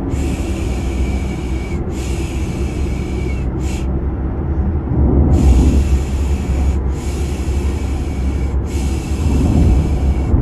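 A steady, low car-ride drone with a repeated 'piş piş' shushing sound laid over it to soothe a baby to sleep. Each shush lasts about one and a half seconds, with a longer pause a little before the middle.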